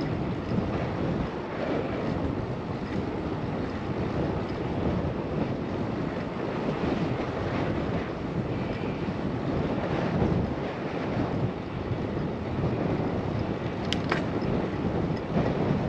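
Wind rushing over a GoPro microphone with a wind screen on a moving bicycle: a steady noise that swells and eases a little. A short click about fourteen seconds in.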